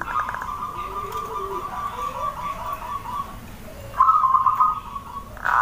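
Zebra dove (perkutut) cooing in rapid, trilled notes: one long phrase, a short pause, then a louder phrase about four seconds in. Fainter, lower gliding calls sound beneath it.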